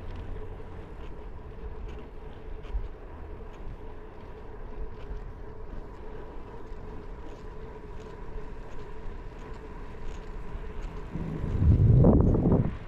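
Gravel bike on the move, filmed with a GoPro: a steady low rumble of tyres and wind on the microphone with faint scattered clicks, and a much louder gust of rumble about eleven seconds in that cuts off sharply near the end.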